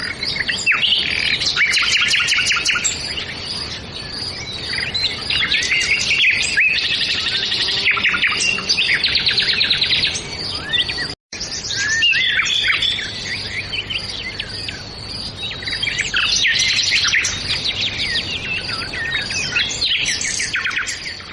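Evening chorus of many birds chirping and trilling at once, a dense, overlapping twitter. The sound cuts out for a split second about halfway through, then the chorus carries on.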